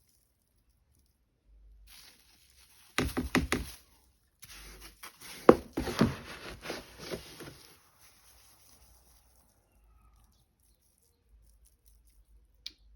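Litter scoop knocking and scraping through cat litter: a quick run of sharp knocks about three seconds in, then a couple of seconds of scraping and rattling with one loud knock, before it goes quiet.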